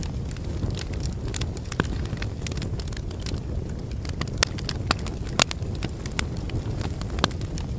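Wood fire burning in a fireplace: a steady low rumble of flames with irregular sharp crackles and pops from the logs, a few louder snaps scattered through.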